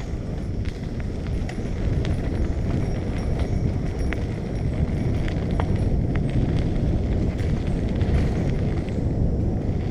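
Wind rushing over the microphone of a moving bicycle, with scattered light clicks and rattles from the bike.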